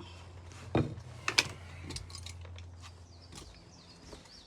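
Scattered clicks and light clinks of hand tools and materials being picked up and set down, the sharpest about a second and a half in, over a steady low hum that fades out about three seconds in.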